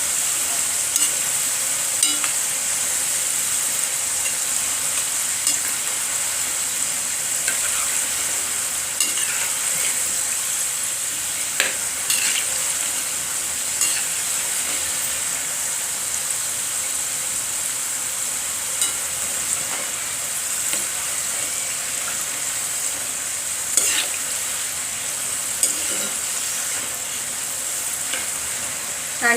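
Pieces of jaggery dough (kapanya) deep-frying in hot oil, a steady sizzle, with a few sharp clicks of a utensil against the pan as they are turned.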